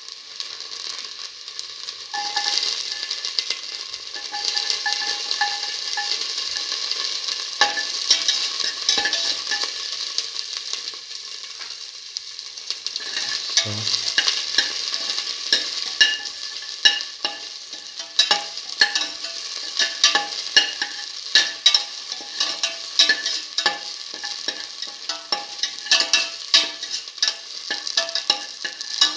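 Shallots and garlic cloves sizzling in hot oil in a stainless steel pan, a steady hiss that grows stronger about two seconds in. Through the second half a spatula stirs them, with frequent sharp clicks and scrapes against the steel.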